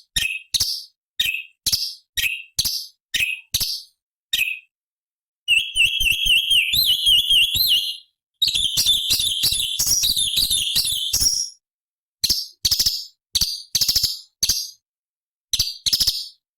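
Orange-bellied leafbird singing: sharp, evenly spaced notes about two a second, then after a short pause a fast warbling run of notes bouncing up and down for about six seconds, then the sharp spaced notes again.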